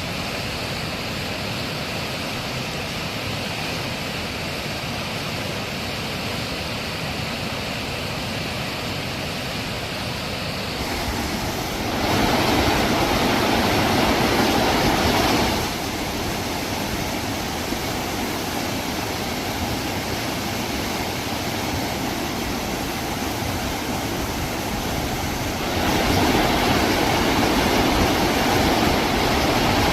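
Steady rushing of flowing river water. It jumps louder for a few seconds partway through and again near the end.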